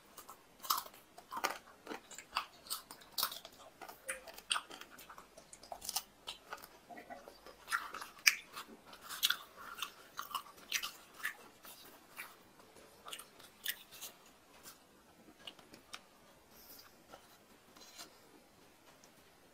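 Close-miked chewing of mutton curry and luchi: many wet mouth clicks and smacks, thinning out over the last few seconds.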